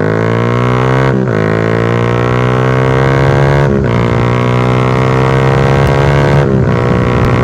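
Honda Sonic 150R's single-cylinder four-stroke engine, breathing through an SC Project exhaust with no dB killer, accelerating hard at high revs. The note climbs in pitch, drops sharply at three upshifts (about a second in, at about four seconds, and near the end), then climbs again.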